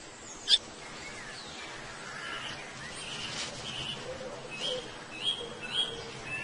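Birds calling: a sharp chip about half a second in, then a series of short chirps, the last three louder.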